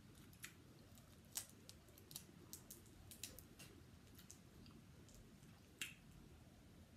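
Faint close-up eating sounds of someone chewing shrimp: a scatter of small sharp wet mouth clicks and smacks over a quiet background, the loudest about a second in and near six seconds.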